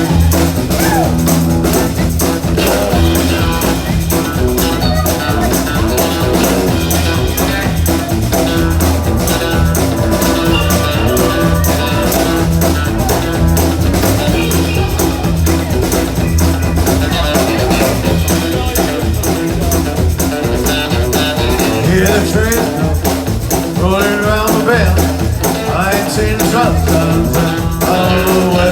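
Live band music with a steady beat, bass and guitar, with singing in places.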